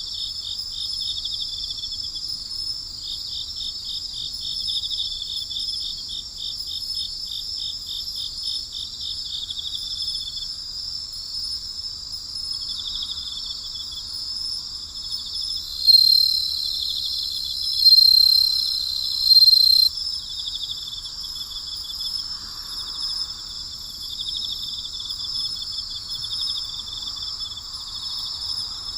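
Night chorus of crickets and other insects: a steady, high-pitched layered chirping with fast pulsed trills. Just past the middle a louder, nearer insect trill sounds three times, each lasting a second or two.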